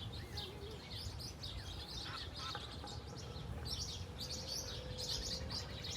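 Small birds chirping and twittering continuously, many quick high calls overlapping, over a low background rumble.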